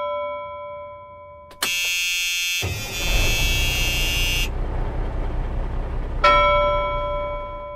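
Intro sound effects: a bell-like chime dying away, then a harsh buzzing electronic tone about three seconds long over a low rumble, then the chime struck again about six seconds in, ringing on.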